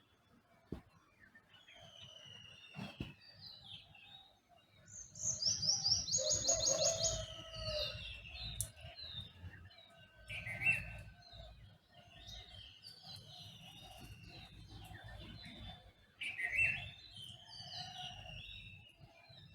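Dawn chorus of several songbirds: overlapping whistled, chirping and sliding phrases. The loudest is a rapid trilled phrase about five to seven seconds in, with shorter loud calls near ten and sixteen seconds, over a faint low rumble.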